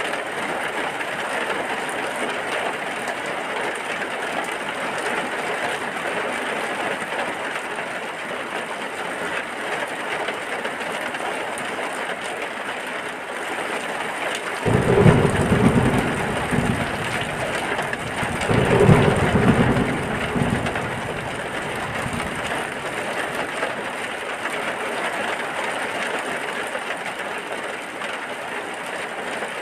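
Steady rain falling. About halfway through come two short, low rumbles of thunder a few seconds apart, louder than the rain.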